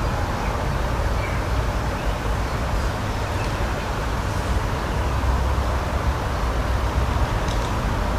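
Steady outdoor nature ambience: a continuous noisy rumble with a strong, unsteady low end, and a couple of faint, brief high chirps.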